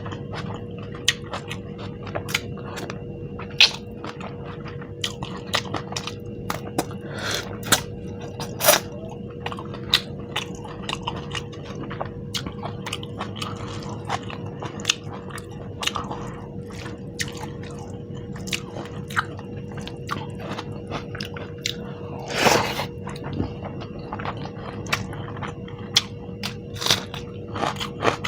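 Close-miked chewing and lip-smacking of someone eating saucy Indian food by hand, many sharp wet clicks and smacks at an irregular pace, with one longer, louder wet sound about 22 seconds in, over a faint steady hum.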